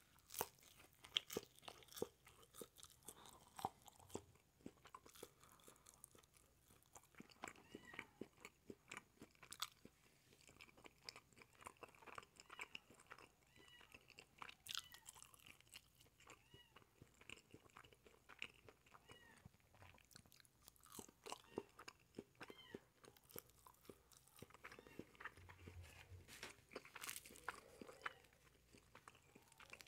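Close-miked biting and chewing of a cheese quesadilla: a steady run of small, quiet mouth clicks and crunches.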